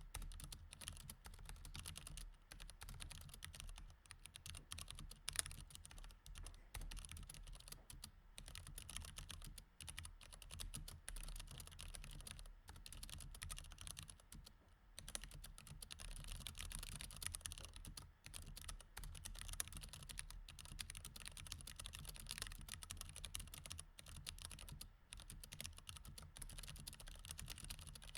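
Mechanical keyboard with Cherry MX Red switches being typed on steadily: a quiet, continuous stream of key clicks, broken by a few brief pauses.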